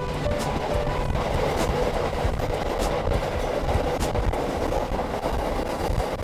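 Train running on rails: a steady rumble with a faint clack from the rail joints about once a second.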